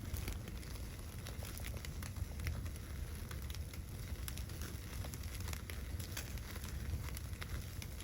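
Wood fire crackling, with scattered small pops over a low steady rumble.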